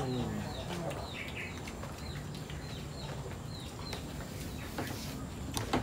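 A bird chirping over and over: short high chirps that drop in pitch, about two or three a second.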